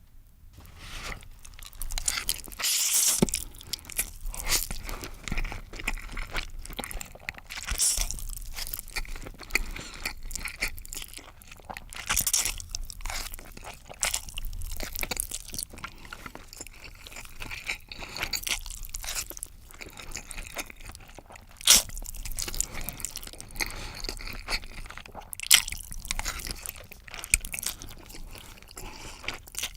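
A person eating close to the microphone: continuous chewing and biting with crisp crunches, the sharpest about 22 and 25 seconds in.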